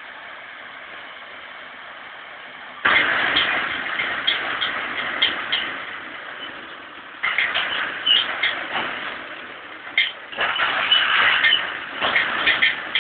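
Tractor engine running, with loud bursts under hard load that start abruptly about three, seven, ten and twelve seconds in, after a quieter steady stretch.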